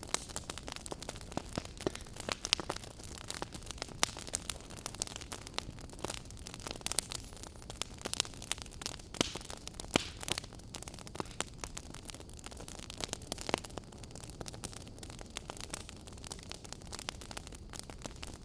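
Wood campfire burning, crackling with irregular sharp pops and snaps over a steady hiss.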